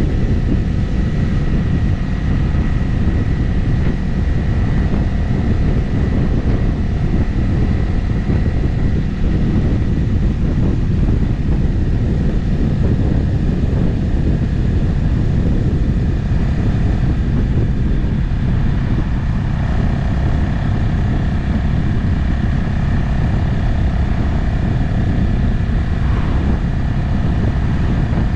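Motorcycle engine running at a steady cruise on the open road, its note holding fairly even, under a constant rush of wind and road noise on the camera microphone.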